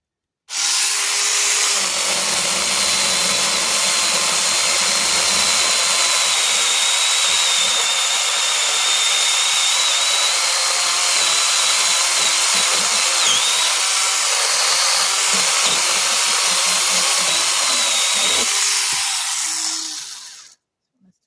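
Small power cutting tool running steadily as it cuts through bush growth, with a high, slightly wavering whine. It starts abruptly about half a second in and dies away near the end.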